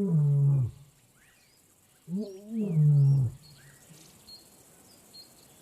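A lion calling twice: two low, moaning calls of about a second each, the first at the start and the second about two seconds in, each rising and then dropping to a held low note. Birds chirp faintly in the background.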